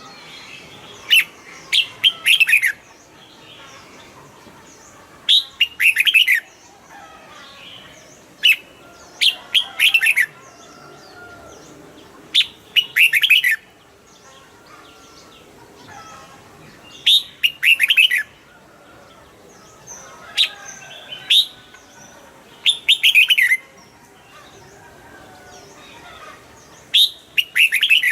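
Red-whiskered bulbul singing loud, short phrases of quick, high notes, each about a second long and repeated every few seconds.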